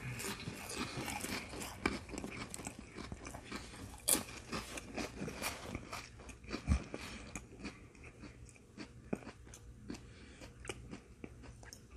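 Close-up biting and chewing of a saltine cracker topped with sardines: many small crisp crunches, thicker in the first half and thinning out toward the end.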